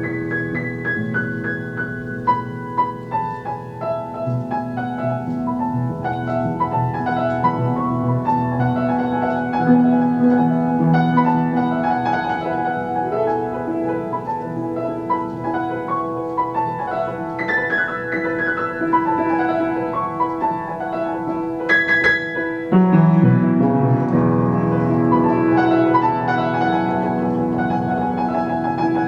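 Piano playing a simple original tune meant to evoke a passing storm, with falling runs of notes over held low bass notes. A louder low chord comes in about three-quarters of the way through.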